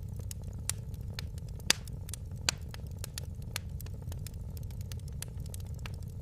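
Wood fire crackling and popping irregularly over a steady low rumble, with two sharper pops about a third and half way through.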